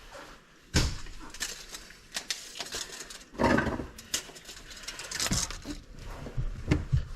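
Irregular knocks, clatter and short scraping sounds from hands-on plumbing work on a drain line, with the loudest burst about three seconds in.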